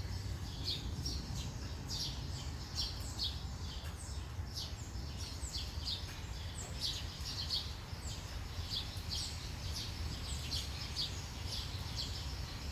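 Small birds chirping continuously: short, high, downward-sliding chirps about twice a second, over a steady low rumble.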